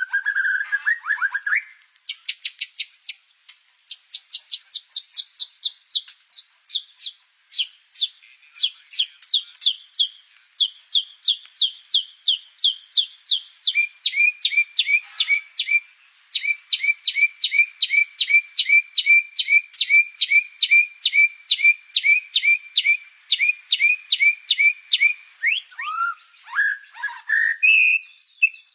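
White-rumped shama singing a long run of quick, evenly repeated whistled notes, each sliding downward, about three a second; partway through the notes change to a two-part pattern, and a few lower swooping notes come near the end. The bird is kept and trained with cililin song.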